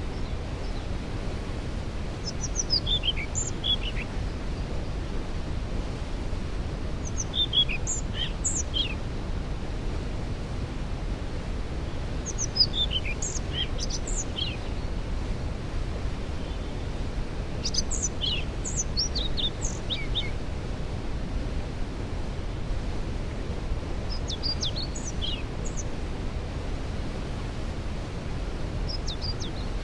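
A waterfall's steady rushing, heaviest in the low end. Over it, a songbird sings a short phrase that falls in pitch, six times at intervals of about five seconds.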